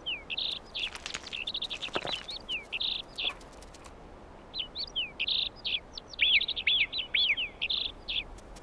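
A small songbird singing high, quick phrases of chirps and down-slurred notes, with a short pause about halfway through.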